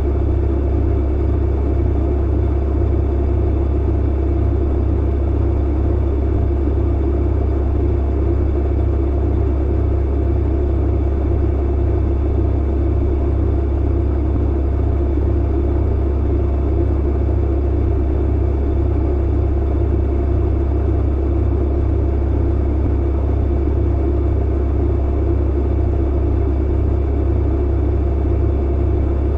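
Clothes dryer running with a steady, deep hum and rumble that does not change.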